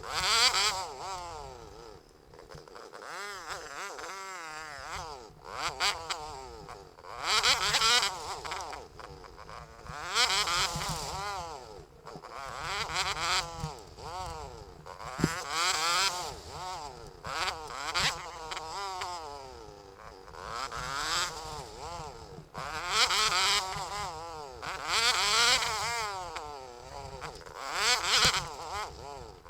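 YCF 125 pit bike's small single-cylinder four-stroke engine being ridden, its pitch climbing under throttle and dropping back again and again every two to three seconds.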